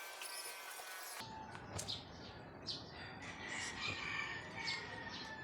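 Small birds chirping over and over in short high notes, with a thin steady whistle-like tone running under them through the latter part.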